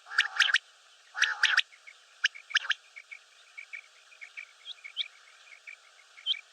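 Common quail calling: two quick phrases of sharp, ringing notes in the first second and a half, followed by a long string of soft, quick ticking notes and a few short high chirps.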